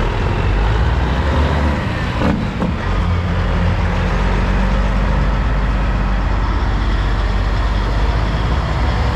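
Heavy diesel truck engine running steadily, with a short dip in the sound a little over two seconds in.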